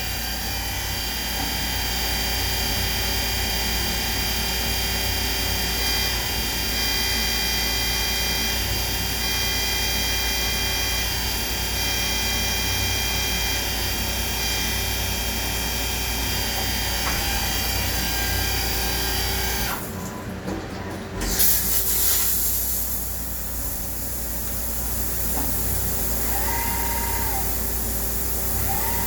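CNC turn-mill lathe machining: a steady whine of many high, fixed tones from the spindle and tooling. About two-thirds of the way through it stops abruptly, a short loud burst of noise follows, and then the machine runs more quietly with two brief rising-and-falling whines of axis motors moving.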